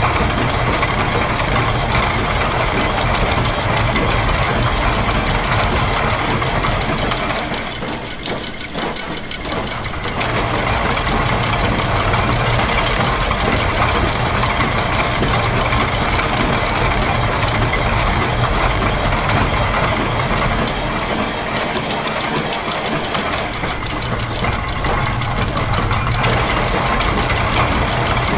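Layered loops of factory machine sounds: gears, a press, clockwork, ratcheting and a sewing machine run together in a dense, steady mechanical din. Twice, at about a quarter of the way in and again near the end, the upper layers thin out for a couple of seconds before the full texture returns.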